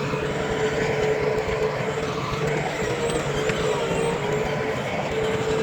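Heavy diesel earthmoving machinery running steadily, with a steady whine over the engine noise.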